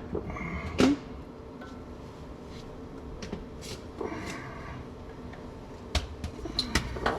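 Scattered clicks and knocks of hand tools being handled while working under a truck: one sharp knock about a second in, another near six seconds, and a quick run of clicks near the end.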